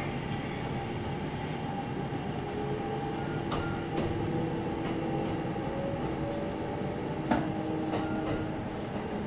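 Kintetsu 1031-series electric train running between stations, heard from inside the carriage: a steady rumble of wheels on the rails with a faint whine that rises slightly in pitch midway, and a few sharp clicks from the wheels over the track.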